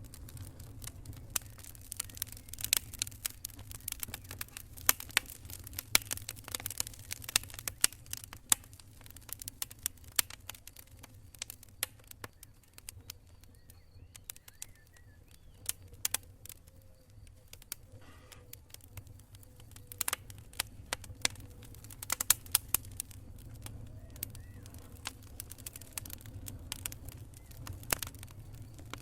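Burning wood campfire crackling, with irregular sharp pops and snaps over a steady low rumble. The snapping thins out in the middle, then picks up again.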